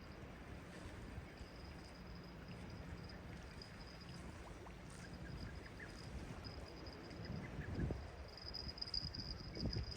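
Sea waves washing in, a low steady rush, with a thin high-pitched tone that flickers on and off and grows stronger near the end.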